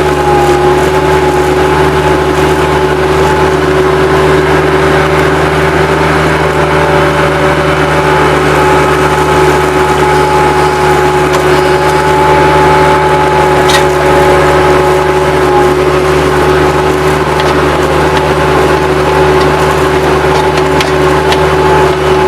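Bobcat 763 skid-steer loader running steadily at working speed, a constant engine drone with a steady high whine over it and a few faint knocks, one sharper click about two-thirds of the way through.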